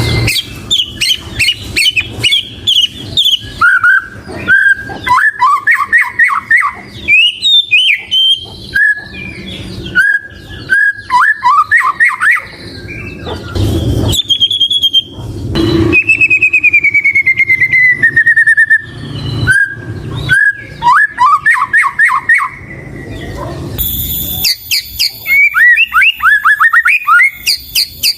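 White-rumped shama singing a varied song: quick runs of short downward-slurred whistles, with a long falling whistle about two-thirds of the way through.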